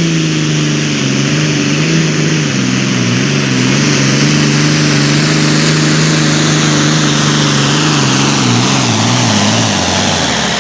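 A pulling vehicle's engine running hard under load during a pull, holding a steady pitch that wavers for a few seconds in the middle, then cutting off abruptly near the end.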